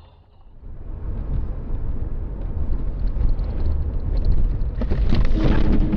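Low, steady rumble of a car on the move, road and engine noise, coming in just under a second in and building. About five seconds in, a harsher, rattling noise joins it.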